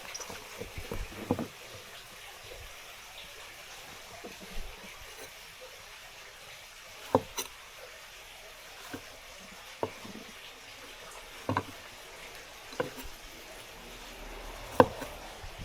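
Tap water running steadily into a kitchen sink, with sharp knocks every second or two, the last near the end the loudest.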